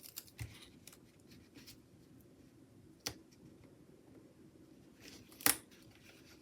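Small scissors snipping a paper sticker strip: a few separate sharp snips, the loudest near the end, over faint desk handling.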